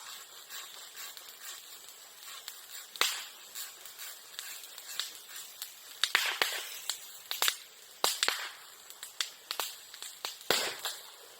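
Bamboo and bamboo grass burning in a bonfire: irregular crackling with sharp firecracker-like bangs, the loudest clustered in the middle and one near the end, from bamboo sections bursting in the heat.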